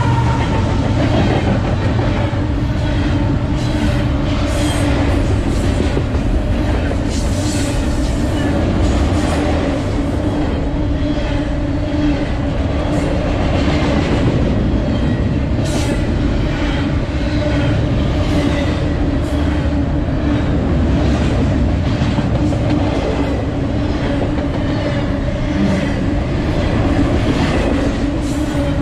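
Double-stack intermodal freight train's container well cars rolling past close by at speed: a loud, steady rumble of wheels on rail with irregular clanks and clatter and a steady low hum. The falling drone of the passing locomotives fades out in the first second.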